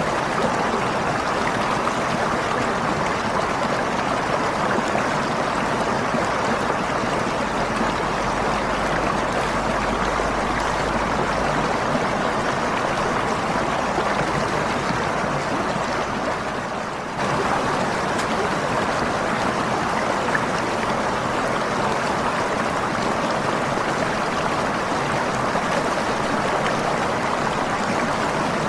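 Waterfall water rushing in a steady, even splash. A little over halfway it fades slightly for a moment, then cuts straight back in.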